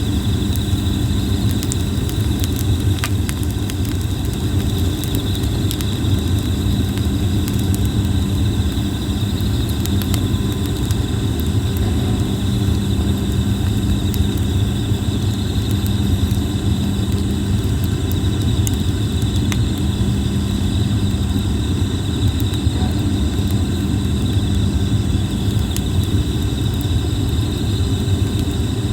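Wood fire of Japanese plum (red-flowering kōbai) logs burning, with scattered sharp crackles and pops over a steady low rumble. A steady high insect chirring runs underneath.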